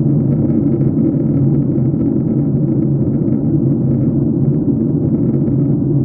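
Airliner cabin noise: a steady, loud rumble of the engines and airflow heard from a window seat inside the passenger cabin.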